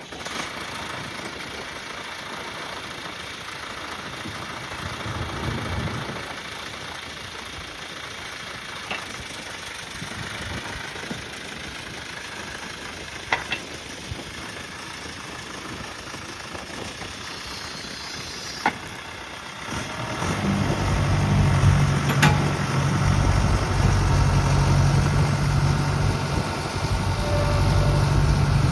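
John Deere backhoe loader's diesel engine running at idle. A steady low engine note grows louder about two-thirds of the way through and holds, with a few sharp clicks before it.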